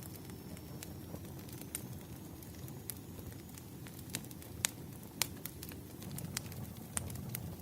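Wood fire crackling: a low, steady rumble of flames with sharp pops and snaps from the burning wood scattered irregularly through it, the loudest pops a little past the middle.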